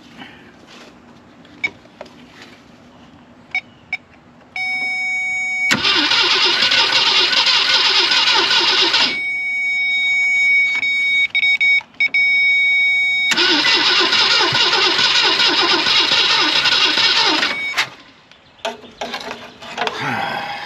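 Starter cranking the 1965 Ford Thunderbird's 390 V8 in two bursts of about three and a half and four and a half seconds. The engine turns over but doesn't catch, because no fuel is coming from the fuel pump. A steady high electronic tone sounds through both bursts and the pause between them.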